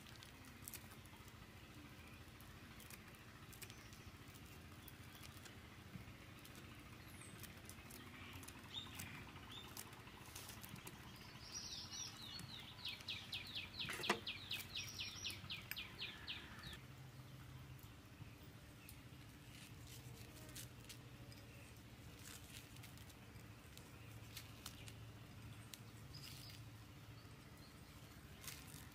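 A bird sings a fast trill of short repeated notes for about five seconds midway through, with one sharp click in the middle of it. Otherwise faint background with scattered small clicks.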